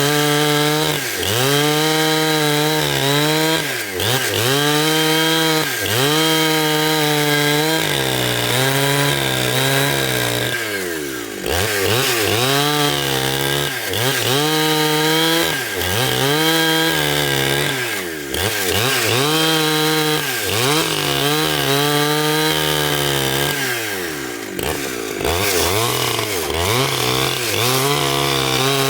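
Gasoline-engine saw cutting wood. The engine's pitch sags under load and recovers about every two seconds through repeated cuts.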